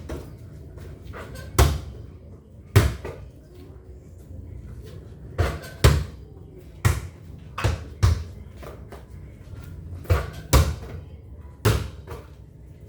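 Basketball thudding on the court and against the backboard or rim: about nine sharp, irregularly spaced impacts.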